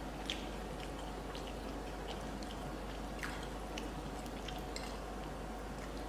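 A person chewing food, with soft, scattered mouth clicks over a steady low hum.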